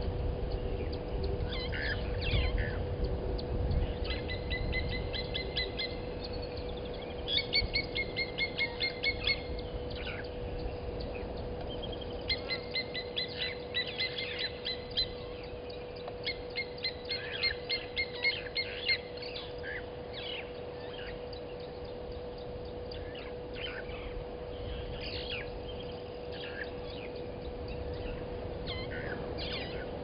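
Wild bird calling in four runs of evenly spaced notes, about five a second, each run lasting about two seconds, with scattered single chirps from other birds. A steady low electrical hum runs underneath.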